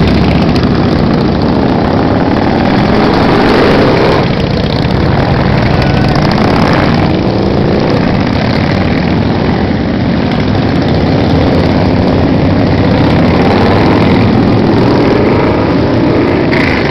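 Motorcycle engines running in a group ride, a steady rumble with the engine pitch rising and falling several times.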